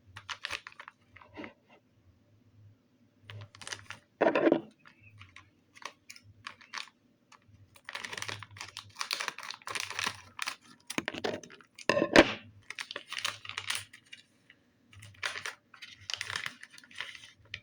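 Plastic blind-bag packaging being handled and torn open: crinkling and tearing with many small clicks, busiest about halfway through and near the end.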